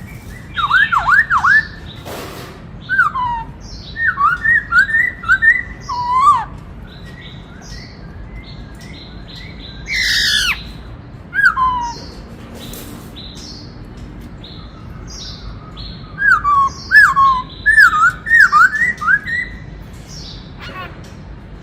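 Black-throated laughingthrush singing: bursts of rapid, clear whistled notes that sweep downward, given in several phrases with pauses between. One loud falling call comes about ten seconds in.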